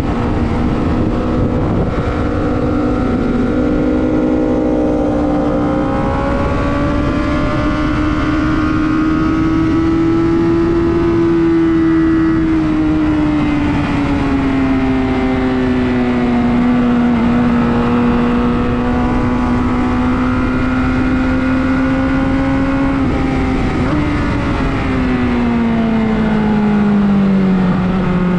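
Sport motorcycle engine running hard on a race track, heard from on board: a steady high engine note that slowly rises and eases through the corners, dropping in pitch near the end.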